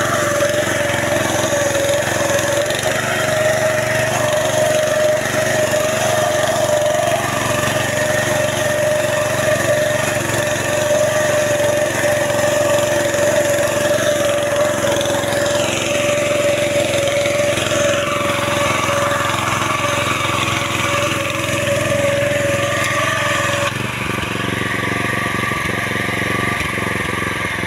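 Small petrol engine of a power weeder running steadily under working load, with a constant mechanical note. Near the end the note shifts and the sound gets slightly quieter.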